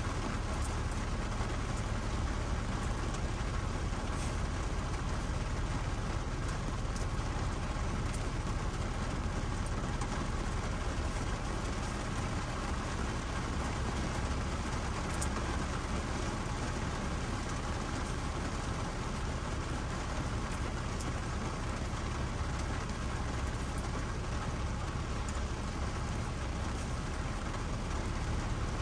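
Steady rain falling on a car's windshield and roof, heard from inside the cabin: an even hiss with scattered sharp drop ticks over a low steady rumble.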